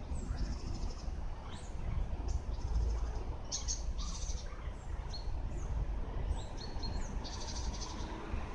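Small birds chirping repeatedly, short high calls and quick down-slurred notes, over a steady low rumble.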